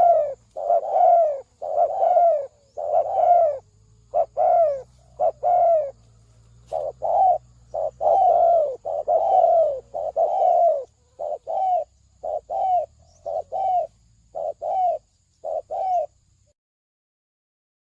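Spotted dove cooing: a long run of short, falling coos with brief pauses between phrases, stopping about sixteen seconds in.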